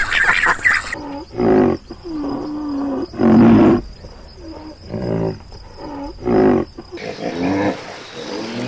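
Ducks quacking briefly, then a run of deep animal calls that bend in pitch, the three loudest about two to three seconds apart, over a faint steady high tone. Softer calls follow near the end.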